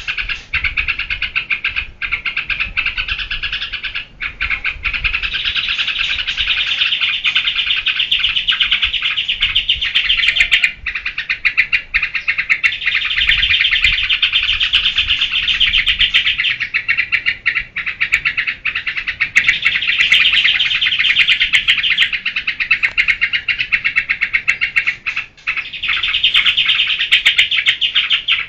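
Yellow-vented bulbul (trucukan) singing its fast, continuous chattering song in long runs of rapid notes, broken by brief pauses.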